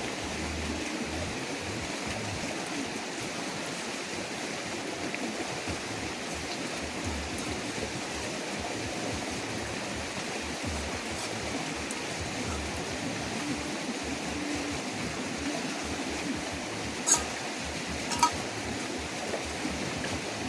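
Steady rush of a creek's flowing water, with two sharp clicks about a second apart near the end.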